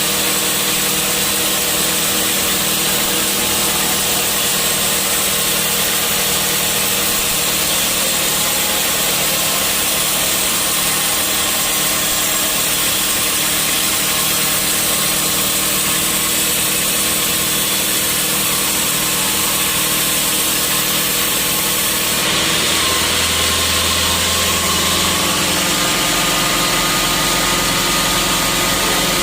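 Sawmill machinery running steadily, a loud even mechanical noise with a steady hum; its sound shifts about 22 seconds in.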